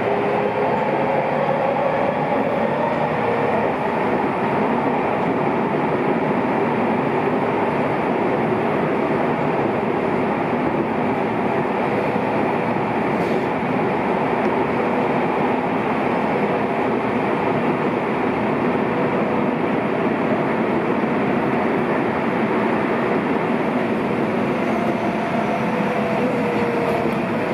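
Seibu 6000 series electric train running steadily through a tunnel, heard from inside the car: a continuous rumble of wheels and rails. A faint motor whine from the traction inverter, running on its new control software, shows near the start and again near the end.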